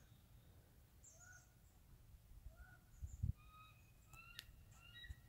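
Faint bird calls: short chirps that come more often toward the end, with a brief low thump on the microphone about three seconds in.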